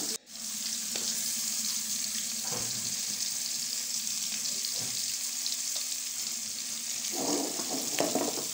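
Whole large prawns frying in hot oil in a metal wok: a steady sizzle that breaks off for an instant just after the start.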